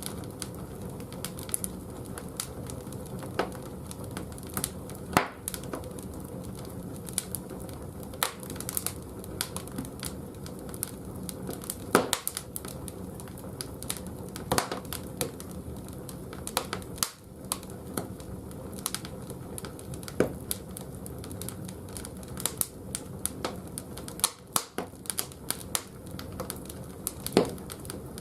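Firewood burning in the firebox of a wood-fired bathhouse boiler: irregular sharp crackles and pops over a steady low hum.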